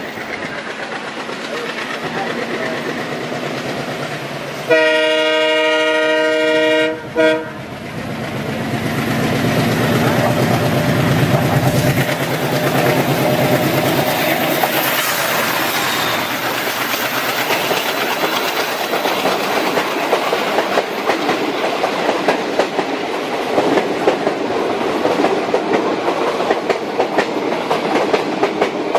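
ALCO diesel locomotive chugging, with a long horn blast about five seconds in that ends in a short toot. The engine then chugs loudly as it passes, and after about fourteen seconds ICF passenger coaches follow, their wheels clicking over the rail joints in a steady clickety-clack.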